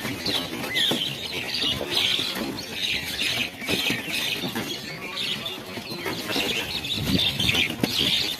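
A large flock of small birds calling all at once, a continuous dense high chatter with irregular low rustling underneath.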